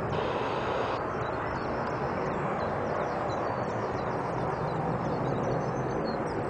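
Steady roar of a jet airliner's engines heard from the ground, with faint high chirps over it.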